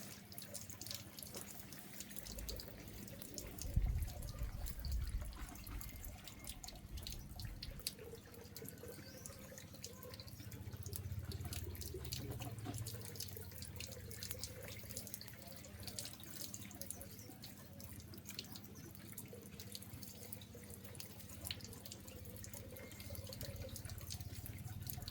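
Water running, splashing and dripping in many small irregular splashes, with a louder low thud about four seconds in.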